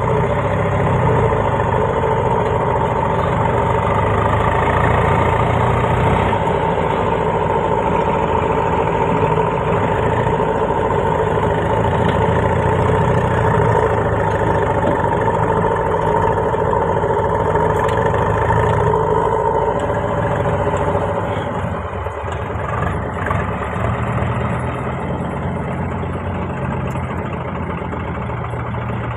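Diesel engine of a heavy machine running steadily, with a steady whine over it that stops about two-thirds of the way through, after which the running is a little quieter.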